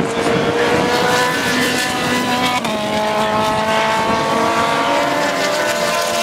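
Race car engine running hard under acceleration, its pitch climbing steadily, with a sudden gear change about two and a half seconds in.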